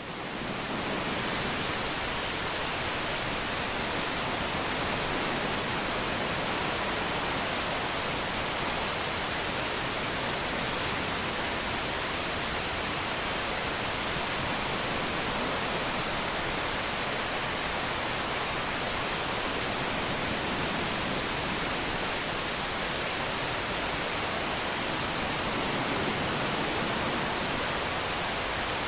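Steady roar of a waterfall: an even rushing of falling water, fading in at the start and then holding level.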